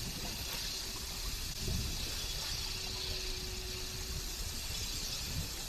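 Steady low rumble under an even hiss from a sailing yacht under way, with a faint steady hum for a second or two in the middle.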